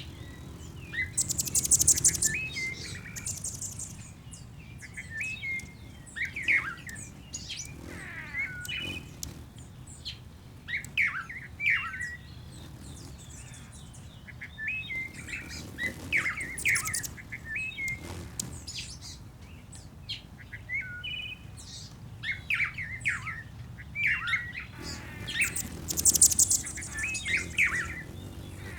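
Bird-song ambience: several birds chirping and singing in short, repeated phrases, with very high, buzzy trills about two seconds in and again near the end, over a steady low background rumble.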